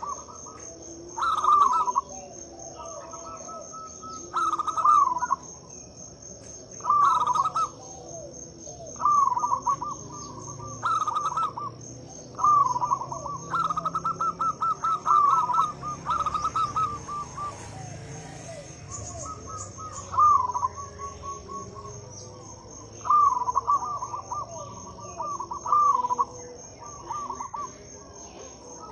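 Zebra dove (perkutut) cooing: a rolling phrase of quick repeated coo notes, given again about every two seconds, with a longer run of phrases near the middle. A steady high-pitched insect chirr runs behind it.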